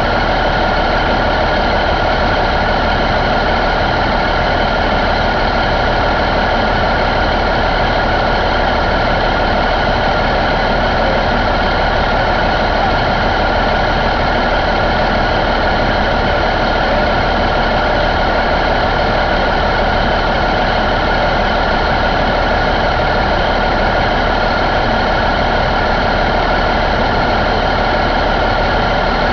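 1993 Cummins N14 CELECT inline-six diesel engine idling steadily, with no change in speed.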